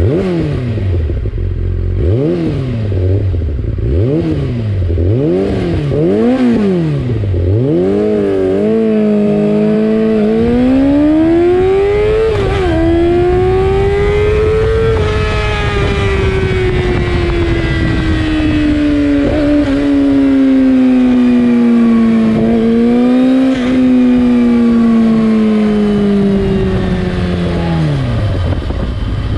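2003 Yamaha YZF-R6's 600 cc inline-four through an Akrapovic exhaust with the dB killer removed, revved in about four quick blips, then held high. The held revs climb, sag slowly and drop back near the end.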